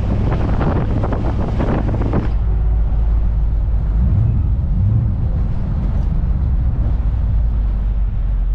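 Old Chevrolet squarebody Suburban on the move: a steady low engine and road drone. A rushing hiss sits on top for the first two seconds and stops abruptly.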